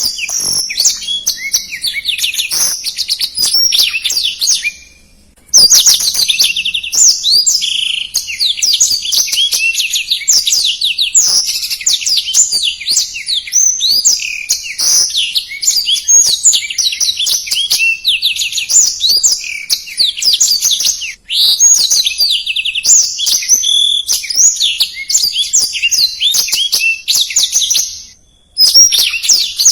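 A blackthroat (black-throated canary) singing a fast, dense song of rapid sweeping notes, breaking off briefly about five seconds in and again near the end.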